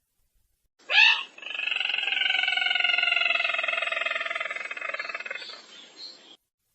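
Sintar merah bird call from a lure recording: one long, finely pulsing call of about five seconds that opens about a second in with a sharp rising note, then slowly falls in pitch and fades out.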